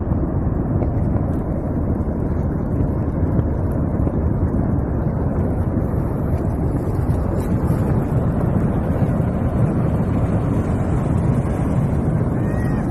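A steady, loud low rumble of noise with no distinct events.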